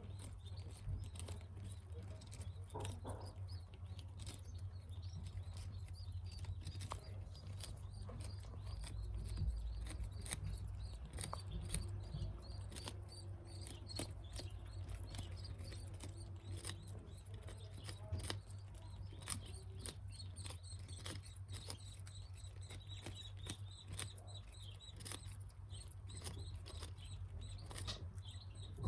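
Budgies pecking and nibbling at food: many small irregular clicks and scratches, with occasional faint chirps, over a steady low hum.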